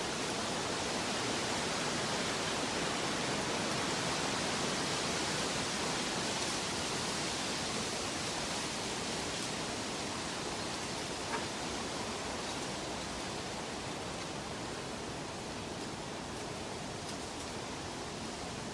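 Steady rushing noise of a nature ambience, even and without rhythm or tones, with a single faint click about eleven seconds in.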